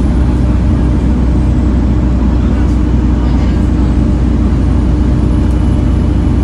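Volvo B7TL bus's six-cylinder diesel engine running at a steady pitch, a loud even drone with a steady tone through it.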